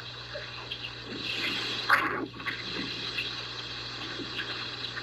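Hurricane rain and rushing water, a steady hiss that swells louder about a second in, with one sharp knock near two seconds.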